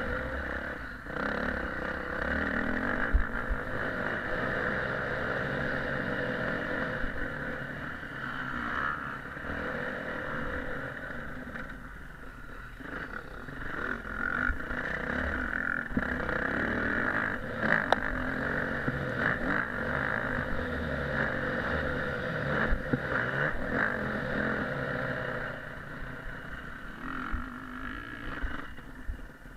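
Motocross motorcycle engine running and revving continuously, with wind noise on the action camera's microphone. It eases off briefly around the middle and again near the end.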